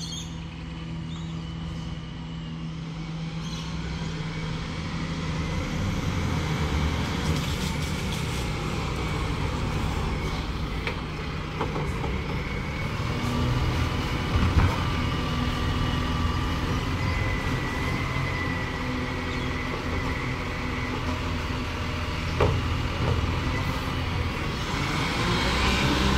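Garbage truck's diesel engine running and growing steadily louder as it draws near, with two sharp knocks, one about halfway through and one near the end.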